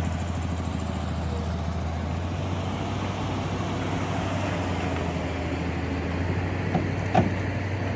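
A steady, low engine hum, like a vehicle idling, over outdoor background noise, with a single brief knock about seven seconds in.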